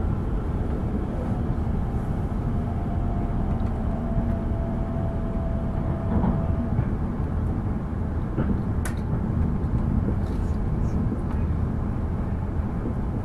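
Steady running noise of a Tohoku Shinkansen train at speed, heard inside the passenger cabin: a low, even rumble. A faint thin tone sounds for a few seconds near the start, and a single sharp click comes about nine seconds in.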